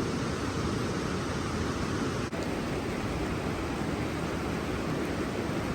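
Rushing water of Yudaki Falls, a cascade sliding down a long rock face: a steady, dense roar of falling water, with a brief break about two seconds in.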